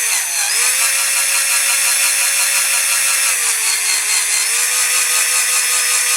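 Electric drill running steadily as it drills out a rivet post in a diecast model car's base. Its pitch dips briefly near the start and again for about a second around three to four seconds in, as the bit bites into the metal.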